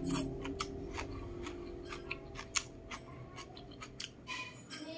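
Close-miked mouth sounds of someone chewing a mouthful of rice and braised fish: a rapid run of soft wet clicks and smacks, slowly getting quieter.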